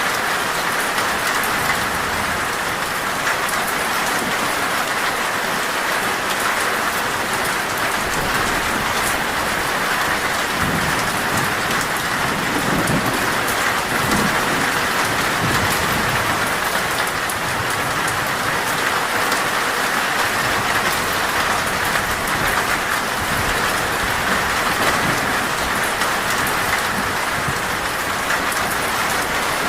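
Heavy, steady rain drumming on a metal roof, with a low rumble of thunder under it about halfway through.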